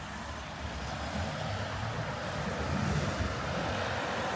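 City street traffic: a passing vehicle's low engine rumble grows louder over the first three seconds over a steady traffic hiss.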